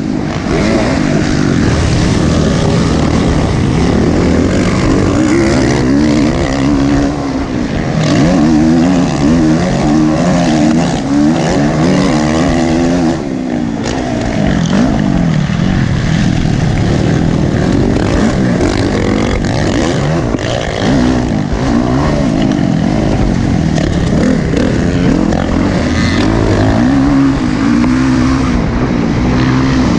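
Motocross dirt bikes racing. Engine pitch rises and falls over and over as the throttle opens and closes, with a short drop-off about two thirds of the way through.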